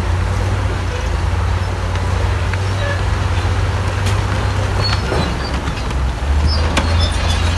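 Heavy diesel earthmoving machinery running steadily with a deep rumble, with scattered clanks and short squeaks. The engine gets louder a little past six seconds in.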